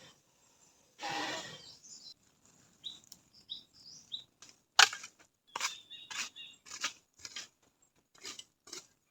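A brief scraping rustle, then a few short high bird chirps, followed by a run of irregular sharp clicks and knocks, the loudest about five seconds in.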